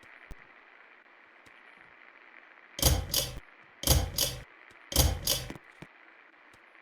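Three ratcheting clicks from a ceiling fan's pull-chain switch, about a second apart, each a double click, over the faint steady sound of the fan running.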